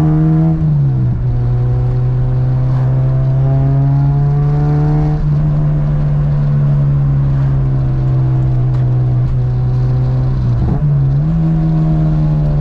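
Honda Civic Si's 2.0-litre four-cylinder engine droning steadily while driving, heard from inside the cabin. Its pitch drops about a second in, holds steady, then dips briefly and comes back up near the end.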